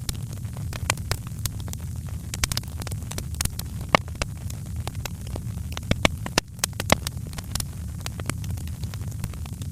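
Wood fire in a fireplace crackling, with many irregular sharp pops and snaps over a steady low rumble; a few louder pops about four and seven seconds in.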